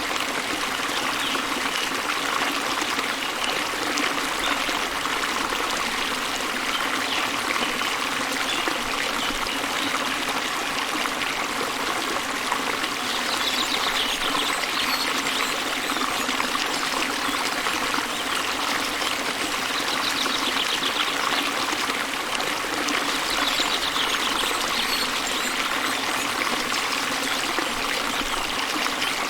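Small waterfall spilling into a river: steady rushing, babbling flow of water.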